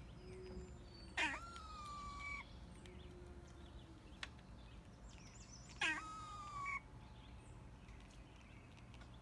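A pet animal's two calls, each about a second long, starting with a quick rise in pitch and then holding a steady high note.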